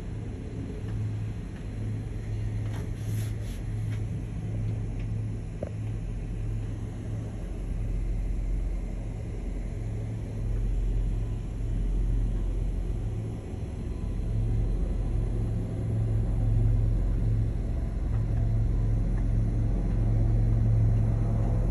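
Steady low rumble of a car in motion, slowly growing louder toward the end.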